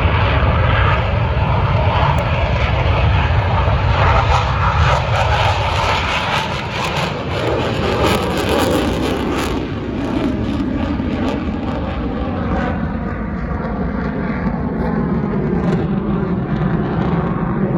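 Military jet taking off at full power: a loud, dense engine noise that swells to its peak about halfway through, then eases off with a falling pitch as the jet climbs away.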